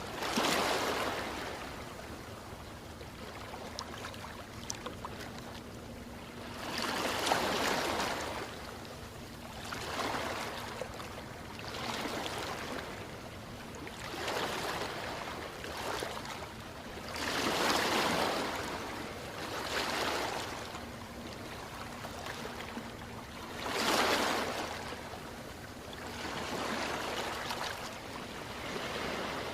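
Ocean waves washing ashore: surf rising and falling in surges every two to three seconds, a few of them noticeably louder than the rest.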